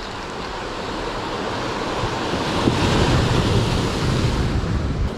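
Sea surf rushing and breaking on the shore, swelling loudest around the middle, with strong wind buffeting the microphone.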